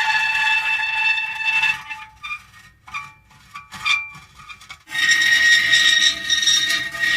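Metal creaking in long, drawn-out, high-pitched squeals. One sustained creak fades at about two seconds, and a patch of short, scattered squeaks and clicks follows. Another long, loud creak begins about five seconds in.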